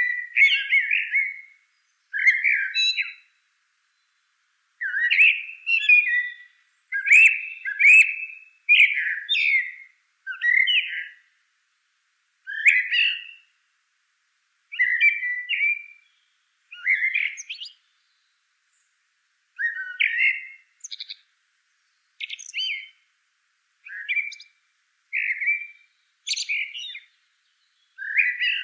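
A bird chirping: short repeated phrases of calls, one every second or two, with short gaps between them.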